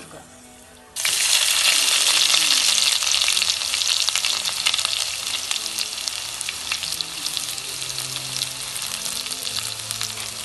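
Sliced shallots hit hot coconut oil in a cooking pot. About a second in they burst into a loud sizzle, which settles into steady frying that eases a little over the following seconds.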